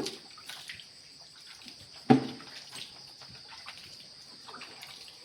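Water splashing and scraping as a cowshed floor is washed down, with scattered small knocks and one loud thump about two seconds in.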